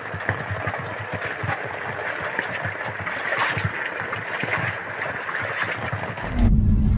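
Heavy rain falling on a tent, heard from inside as a dense, steady patter of drops. Just before the end it cuts off suddenly and loud music with a deep low rumble begins.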